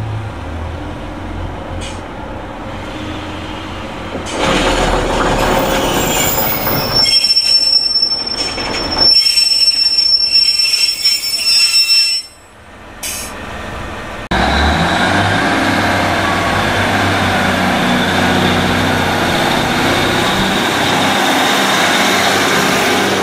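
Class 142 Pacer diesel railbus drawing into a platform: a low engine hum, then loud rolling and a steady high wheel squeal that dies away as it slows to a stop. After a cut about fourteen seconds in, the steady running noise of another diesel multiple unit.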